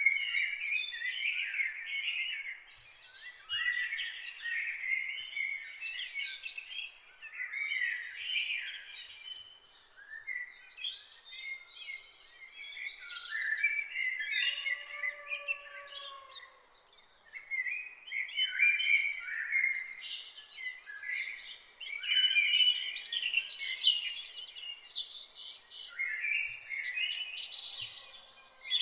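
A dawn chorus of many songbirds singing at once, with a constant stream of overlapping chirps, trills and warbled phrases. A thin, steady high tone runs behind the birdsong, and a short, lower call sounds about halfway through.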